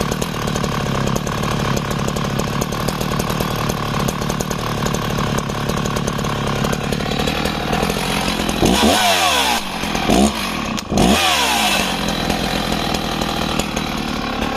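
Husqvarna 61 two-stroke chainsaw idling steadily, then revved up hard twice, about two seconds apart, the revs falling back to idle after each.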